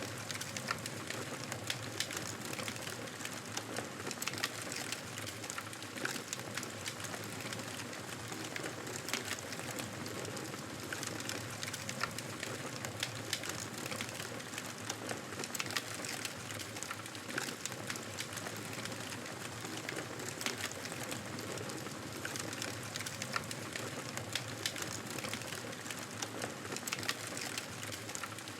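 Campfire burning, the wood crackling with frequent irregular snaps over a steady hiss.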